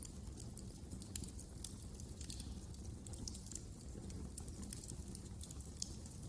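Wood fire crackling in a fireplace: many small irregular snaps and pops over a steady low rumble of burning.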